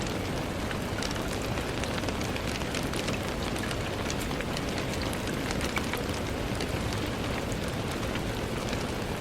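Steady rain on a window: a constant even hiss with many small raindrop ticks scattered through it.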